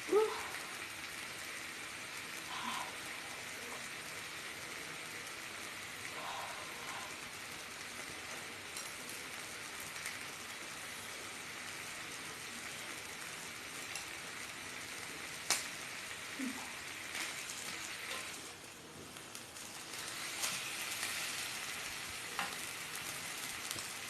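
Meat frying in a pan, a steady sizzling hiss with a few sharp clicks. The sizzle dips briefly about two-thirds of the way through and then comes back a little louder.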